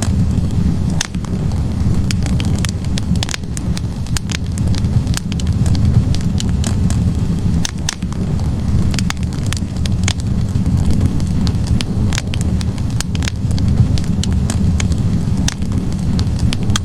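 Wood fire burning in a fireplace: logs crackling and popping irregularly, several sharp snaps a second, over a steady low rumble of the flames.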